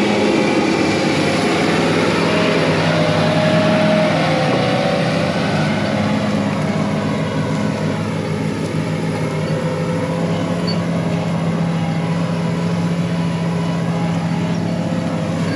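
Farm tractor engine running steadily, with a faint wavering whine a few seconds in.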